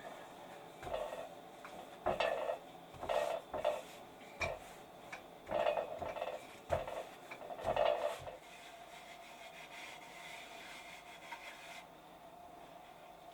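Irregular scraping and rubbing strokes of hand work in a kitchen, with a few light knocks of wood and dishes, going on for about eight seconds and then stopping.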